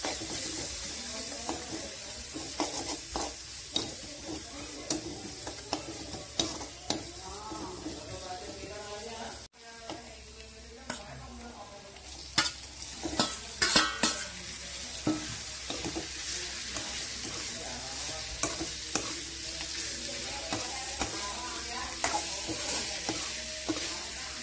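Onion, garlic and spice paste sizzling in hot oil in a metal pan, with a metal spoon scraping and clinking against the pan as it is stirred. The sound breaks off briefly a little before halfway; soon after, a quick run of clinks as boiled pork pieces are scraped in from a bowl, and the sizzling and stirring go on.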